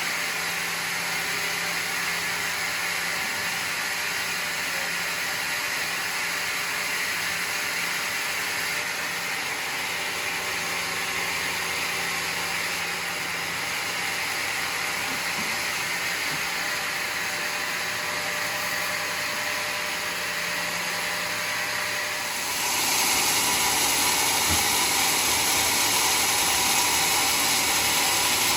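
Homemade sawmill running steadily as it saws a mahogany log into boards; a little over three-quarters of the way through the sound steps up louder, with more hiss.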